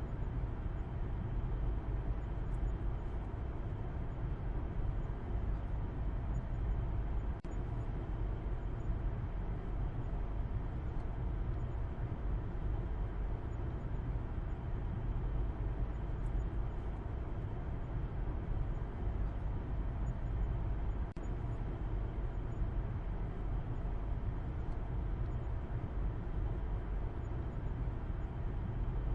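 Car driving at a steady speed: a constant low drone of road and engine noise.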